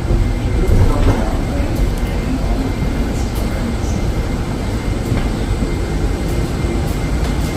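Steady low rumble of a moving vehicle, with faint voices.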